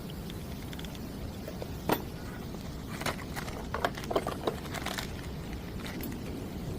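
A car's steady low rumble, with a scattering of sharp clicks and knocks: one stands out about two seconds in, then a cluster of them follows in the middle.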